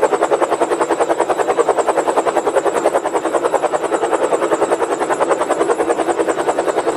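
Helicopter-sound siren sounding steadily: an even, rapid chopping of about a dozen beats a second with no deep bass.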